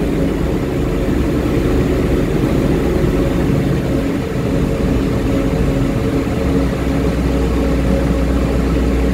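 HeuliezBus GX Linium H hybrid city bus running: a steady low drone with several held tones over a rumble. A deeper hum comes in about two-thirds of the way through.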